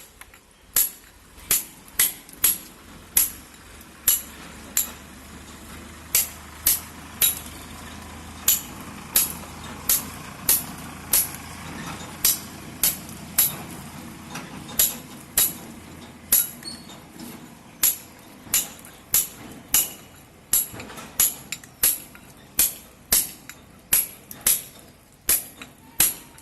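Repeated sharp hammer blows, about two a second with uneven spacing, kept up steadily throughout.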